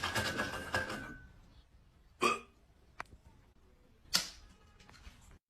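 Hiccups: two short, sharp hiccup sounds about two seconds apart, with a faint click between them.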